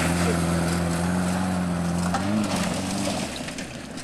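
Pontiac 6000's engine running at a steady pitch under way, revving briefly up and back down a little past halfway, then getting quieter as the car moves off.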